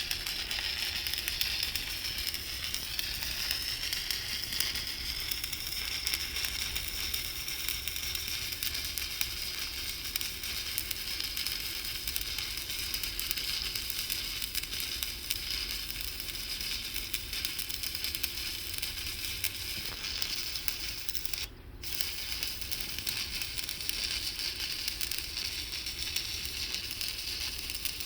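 Electric arc welding: a steady crackling sizzle of the arc. About three-quarters of the way through, the arc breaks off for a moment, then strikes again and carries on.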